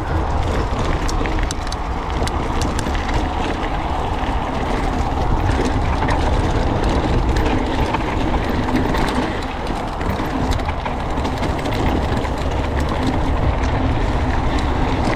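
Wind rushing over a GoPro and the knobby tyres of a Siskiu D6 mountain bike rolling over dirt at speed, with scattered clicks and rattles from the bike's chain and drivetrain.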